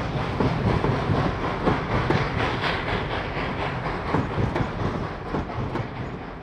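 Railroad cars rolling past close by, wheels clacking irregularly over rail joints over a steady rumble, fading toward the end.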